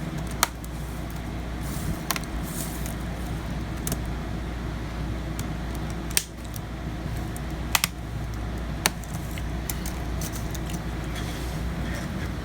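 A handful of sharp plastic clicks and taps, spread out, as an HP laptop keyboard is laid into its bay and pressed down into the chassis, over a steady low hum.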